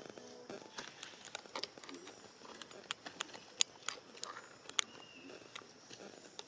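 Irregular sharp clicks and crunches, a few a second, with a short thin whistle-like tone about five seconds in.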